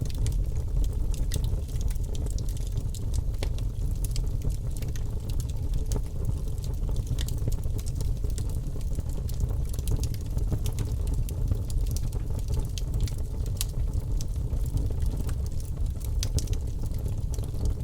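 Logs burning in a fireplace: a steady low rumble of flames with irregular sharp crackles and pops scattered throughout.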